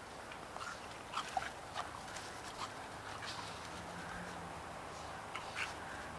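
Two dogs play-fighting, making scattered short, sharp dog noises, with a few louder ones about a second in and near the end.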